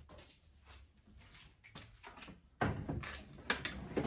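Light knocks and clicks from parts and tools being handled, sparse at first and busier in the last second and a half.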